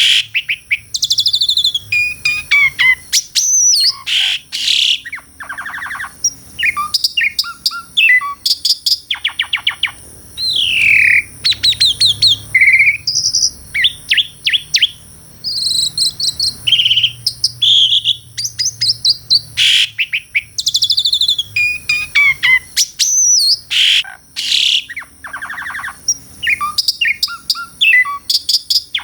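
Asian pied starling (jalak suren) singing a long, varied song of loud whistles, rising and falling slurred notes and rapid clicking rattles, phrase after phrase without a break.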